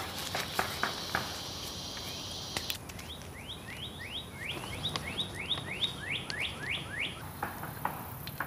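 A bird singing a quick run of about a dozen short rising chirps, three or four a second, over outdoor background. A few crinkling clicks of paper being crumpled in the hands come right at the start.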